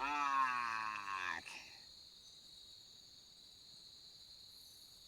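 Insects droning steadily in a high, even band. In the first second and a half, a louder wavering pitched sound rises over it and falls away.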